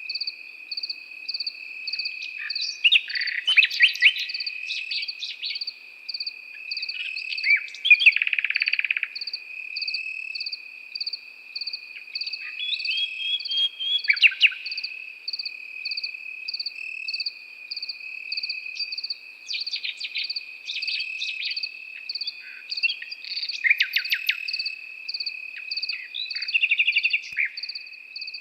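A nightingale singing in short, varied phrases, about six of them, the loudest near the start, over crickets chirping. Under the song runs a steady insect trill and an evenly repeated, pulsing chirp.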